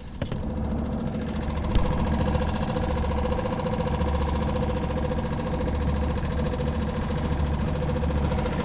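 Steady hum of a small motor on a skiff, a low drone with a constant whine above it, with a couple of short knocks near the start.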